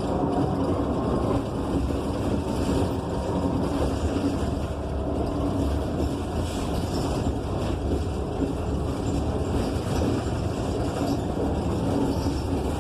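Inside the cabin of a Gillig BRT Plus transit bus under way: its Cummins Westport ISL G natural-gas engine runs with steady road noise.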